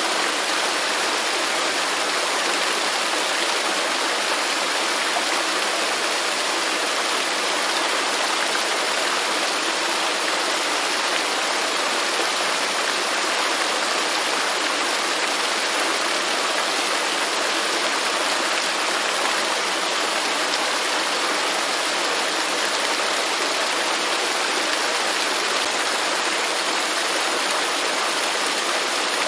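Waterfall rushing steadily, a constant hiss of falling water without breaks or changes.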